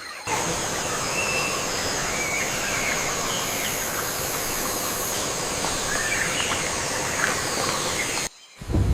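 Rainforest ambience: a steady hiss-like rush with a few steady high tones, and scattered faint short bird chirps. It cuts out abruptly near the end.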